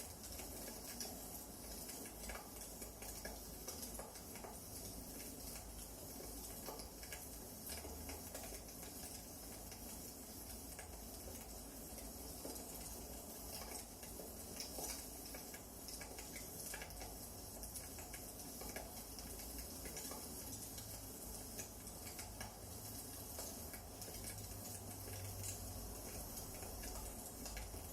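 Wood fire burning in a fireplace: irregular crackles and small pops over a low steady rumble.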